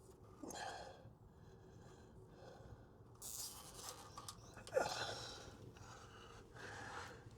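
A man's breathing while he works: a few short breaths, and about five seconds in a brief grunt falling in pitch.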